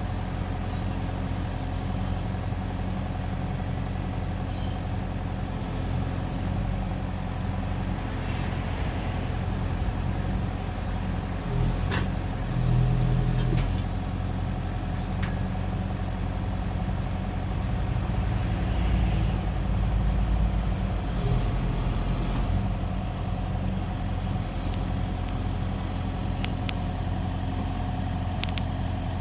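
Kubota excavator's diesel engine running steadily, growing louder for a couple of stretches as the hydraulics work the new grab. There is a sharp click about twelve seconds in.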